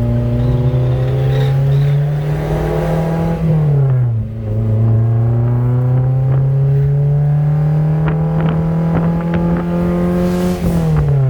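Honda four-cylinder car engine pulling under throttle, its pitch climbing steadily. About four seconds in, an upshift drops the pitch, and it climbs again, with another upshift starting near the end.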